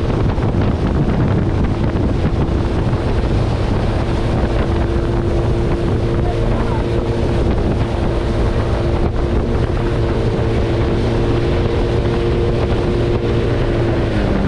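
Motorized watercraft running steadily at speed, its engine droning under heavy wind noise on the microphone and rushing water. The engine pitch drops slightly near the end as it eases off.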